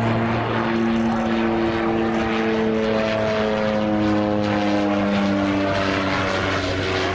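Propeller-driven aircraft flying past, its engine and propeller note drifting slowly down in pitch from about three seconds in.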